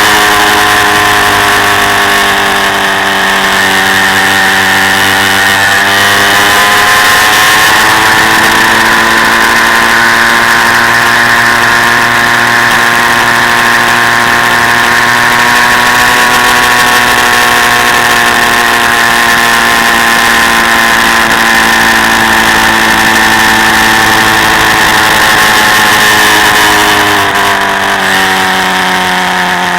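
Quad bike engine running steadily. Its pitch rises a little about seven seconds in, holds, then drops near the end.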